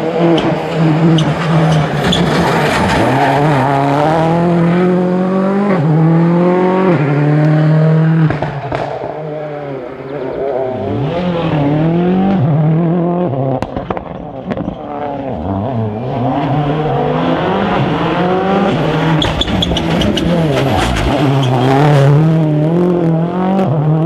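Rally cars driven hard on a stage, the engines revving up and dropping back again and again through gear changes and braking.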